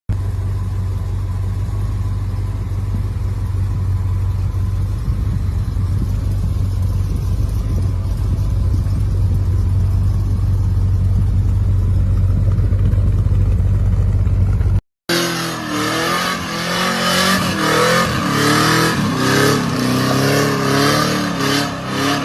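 A vehicle engine running with a steady deep drone; about fifteen seconds in, after a cut, an engine revving, its pitch rising and falling.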